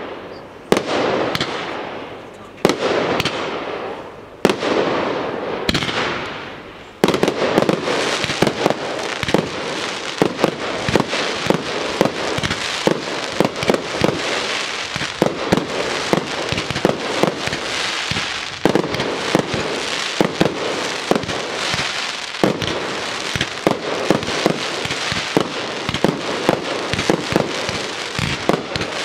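Aerial fireworks display: for the first several seconds single shells burst a second or two apart, each report dying away, then about seven seconds in it turns into a dense, continuous barrage of rapid bangs.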